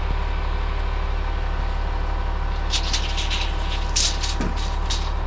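Crane truck's engine running steadily, a low drone with a constant hum. In the second half come a run of short, light clicks and taps.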